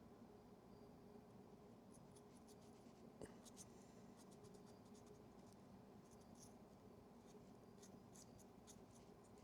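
Faint, light scratching and rubbing at the corroded battery contact of a Yashica Electro 35 GSN camera as it is cleaned, in short scattered strokes over a low steady hum.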